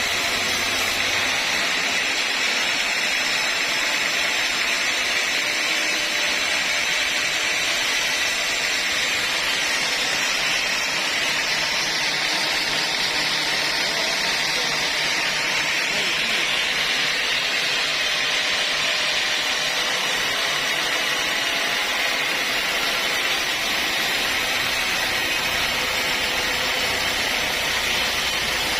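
Sawmill saw cutting through a mahogany log: a steady, unbroken sawing noise that holds the same level throughout.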